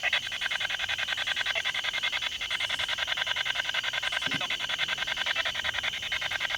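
Spirit box (radio scanning device) sweeping through stations at full volume: a steady hiss of static chopped into rapid short pulses, about ten a second, with a brief faint fragment of sound about four seconds in.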